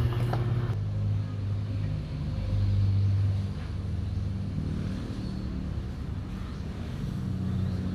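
A vehicle engine running steadily at idle, a low hum that swells slightly about two to three seconds in.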